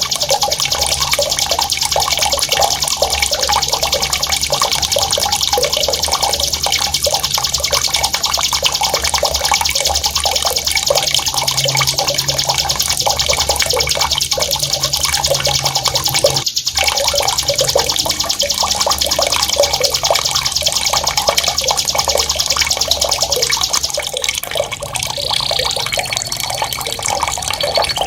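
Running, splashing water layered with a continuous high, very rapid rolling bird trill of the kind used as a masteran training song. The trill cuts out briefly once, stops about four fifths of the way through, and a couple of short high chirps follow.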